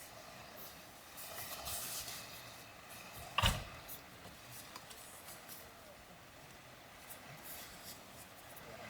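Quiet rustling and handling noises in a small enclosed space, with one sharp knock about three and a half seconds in.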